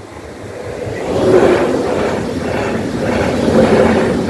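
SOB Traverso electric multiple unit passing through a level crossing at speed: wheel and air noise rise over the first second or so, then stay loud and steady as the coaches go by close at hand.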